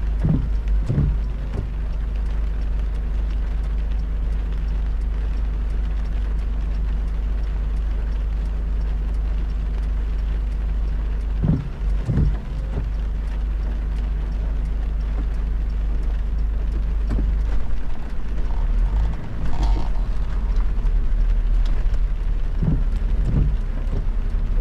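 Car driving on a rain-soaked road: a steady low rumble of road and engine noise, broken by a few dull thumps in pairs near the start, about halfway through and near the end.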